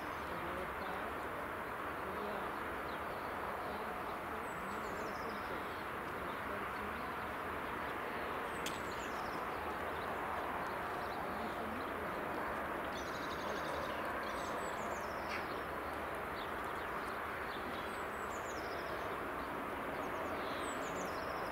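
Steady background hiss with a small bird's short, high, falling chirps recurring every few seconds.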